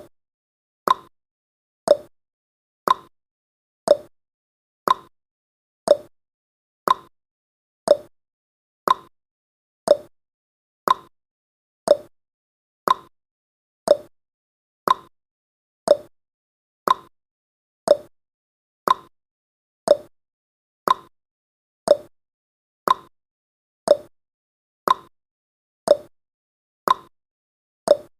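Countdown timer's tick sound effect: one short, sharp tick every second, evenly spaced, with silence between the ticks.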